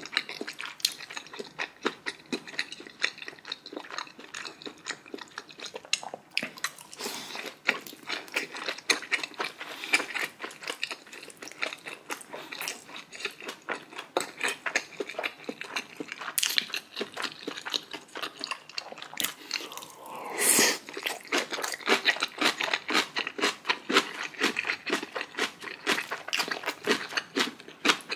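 A person chewing and crunching food close to the microphone, in a dense run of wet clicks and crackles, with one louder, longer sound about twenty seconds in.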